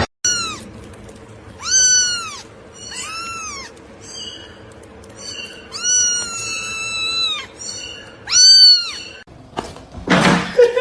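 A domestic cat meowing about five times, each call rising and falling in pitch, with the fourth held longest. A short rushing noise follows near the end.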